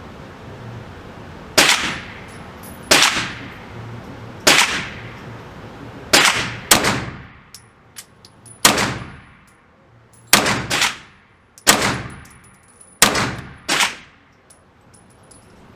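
A string of about eleven gunshots from a firearm at a shooting range, fired singly and in quick pairs, each with a short echoing tail.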